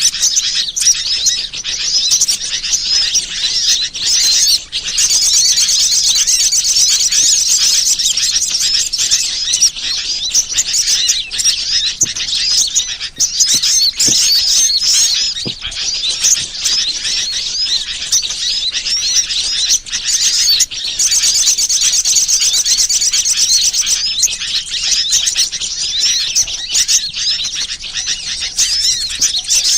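Bird-lure recording: dense, continuous high-pitched chirping and twittering of many small birds, with rapid trills, busier in two stretches.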